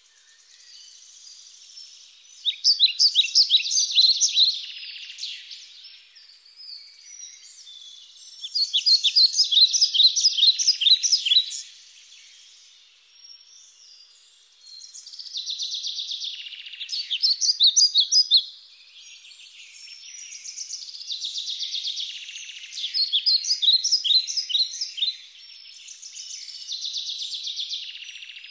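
Songbirds singing: phrases of rapid, high chirping notes lasting two to three seconds, coming about five times, with softer twittering in between.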